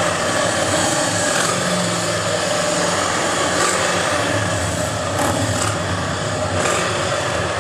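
Steady running of motorcycle engines, a low hum under a constant wash of outdoor noise, with a few light clicks about five to six seconds in.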